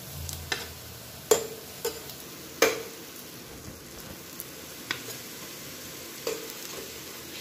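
Bread rolls sizzling in hot mustard oil in a frying pan, with about six sharp clinks of a metal spoon as they are lifted out; the loudest come about one and a half and two and a half seconds in.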